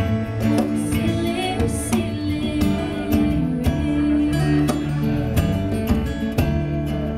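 Acoustic song: acoustic guitar strummed in a steady rhythm, with held melody notes over it.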